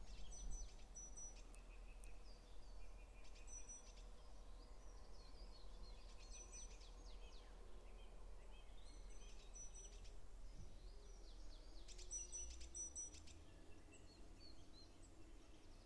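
Faint forest ambience: small birds give short, high, thin calls every few seconds over a low, steady rumble.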